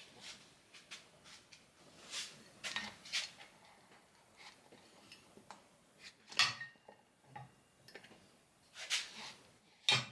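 Rubber axle boots and metal axle parts being handled on a workbench: scattered rustles, light clinks and knocks, the loudest knock about six seconds in and another just before the end.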